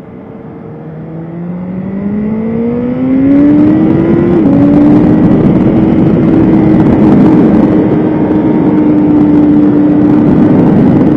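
BMW S1000RR inline-four sport-bike engine accelerating hard, its pitch and loudness climbing for about four seconds. A brief dip like a gear change follows, then it holds at high revs, with a slight fall near the end.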